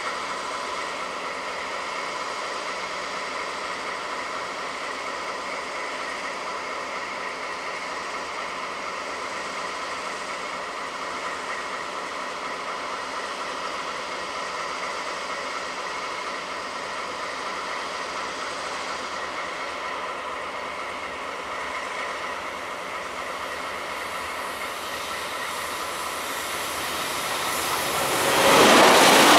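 EF210 electric freight locomotive hauling a container train out from a standstill and approaching: a steady whine of several tones with rail noise. It grows much louder near the end as the locomotive draws close.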